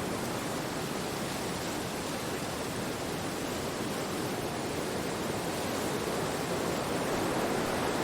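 Wind blowing steadily through forest trees, a continuous rushing that swells slightly near the end.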